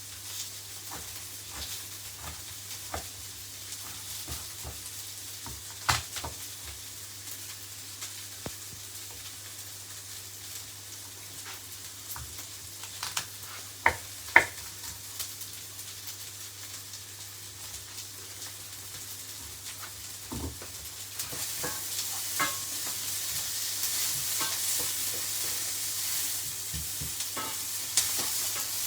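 Red onion and orange pepper frying in coconut oil in a pan: a steady sizzle that grows louder about two-thirds of the way through, with a few sharp knocks, the loudest two close together about halfway.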